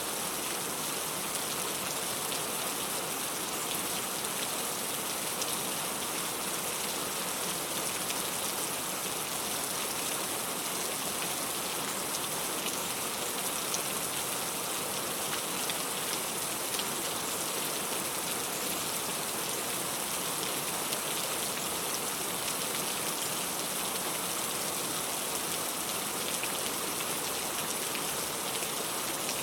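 Steady rain falling: an even hiss of many drops with no thunder rolls.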